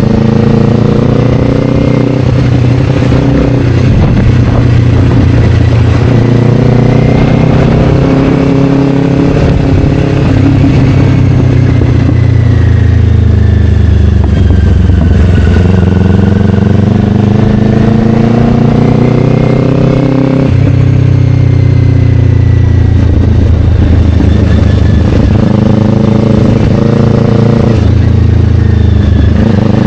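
Kawasaki Ninja 500's parallel-twin engine running through an Akrapovic slip-on exhaust on the move. The engine note rises and falls, slows in a long falling glide midway and picks up again about twenty seconds in.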